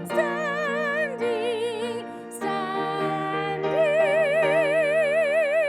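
Hymn singing with strong vibrato over steady, sustained instrumental accompaniment. In the second half the word "standing" is held as one long note.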